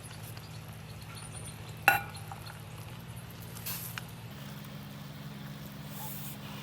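A single sharp metallic clink with a short ring about two seconds in, then a couple of faint clicks, over a steady low hum.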